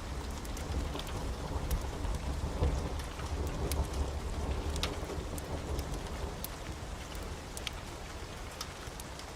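Steady heavy rain with a low rumble of thunder that rolls on and fades away over the second half, with scattered sharp ticks on top.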